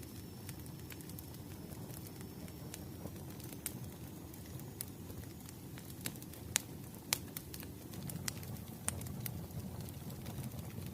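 Wood fire burning: a steady low rush of flames with scattered sharp crackles and pops from the burning logs, a few louder pops in the second half.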